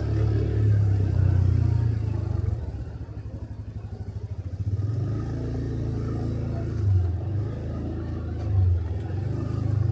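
Motorcycle engine running. It eases off to a slow, evenly pulsing beat about three seconds in, then picks up again, with two short bursts of throttle near the end.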